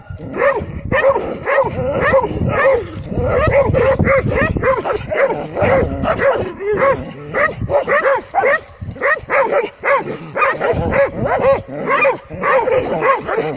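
Several dogs barking rapidly and without pause, the barks overlapping: agitated barking at a cobra they are confronting.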